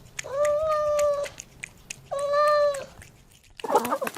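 Domestic cat meowing twice, two long, steady, fairly high meows with a pause between them.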